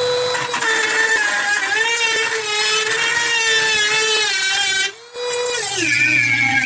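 Electric drill running at a steady high whine while drilling out a microwave's security screw. It stops briefly about five seconds in, starts again, and its pitch sags under load near the end.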